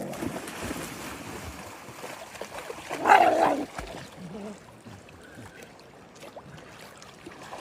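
A dog gives one loud, short vocal call about three seconds in, over a low background hiss.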